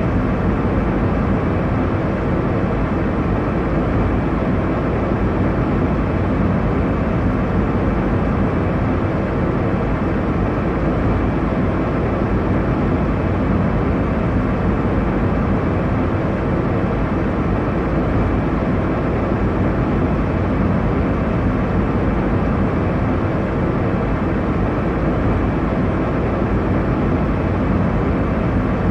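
Airliner cabin noise in cruise: a steady, low, even roar of engines and airflow, with no distinct events.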